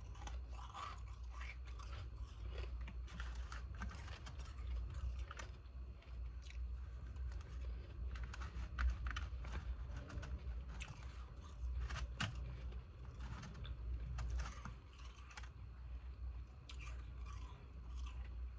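A person chewing and crunching hard ice close to the microphone, with many irregular sharp crunches and crackles.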